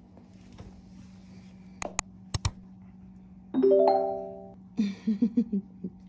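A few sharp clicks, then a piano-like chord that rings out and fades over about a second, followed by a quick run of short notes.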